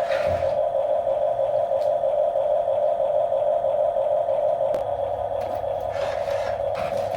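Small electric motor of a radio-controlled toy construction vehicle whining steadily at one pitch, with a faint click about three-quarters of the way through.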